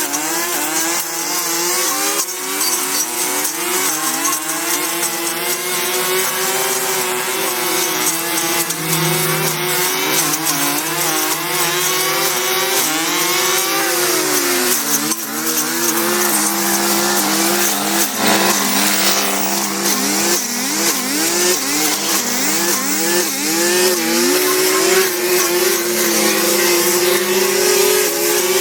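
Small petrol engine running at high revs, its pitch dropping and recovering again and again as it comes under load; a second, lower steady engine tone runs alongside in the middle of the stretch.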